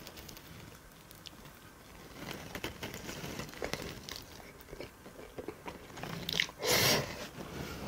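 A person biting into and chewing a thick slice of lasagna Chicago pizza, close to the microphone: many small crisp clicks and crunches of crust and mouth, with one louder burst near the end.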